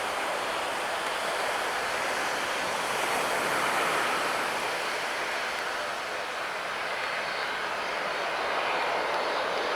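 Jet airliner engine noise, a steady rushing sound that swells slightly about four seconds in.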